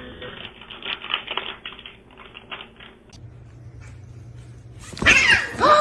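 A cat yowls twice near the end, each call sliding down in pitch. Before that there is a stretch of scratchy rustling.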